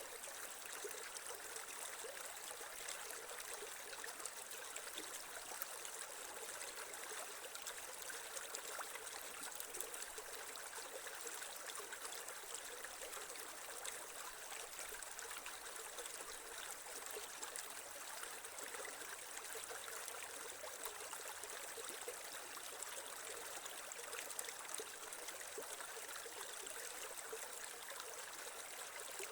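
Creek water running and trickling over stones, a steady wash of splashing with no change.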